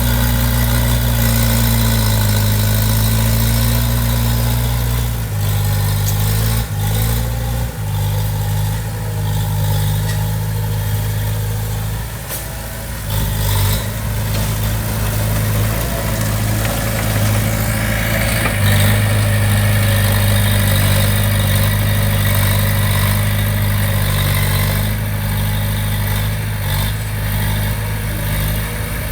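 Diesel engine of heavy earthmoving equipment running steadily under changing load. Its low note shifts a few seconds in, dips briefly around the middle and picks up again in the second half.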